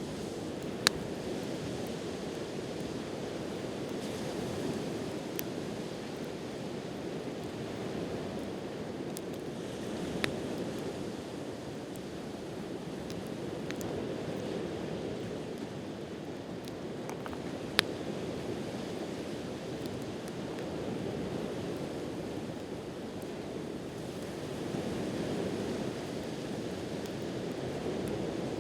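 Sea waves washing steadily on the shore, swelling and easing, with a wood campfire giving a few sharp, sparse pops and crackles.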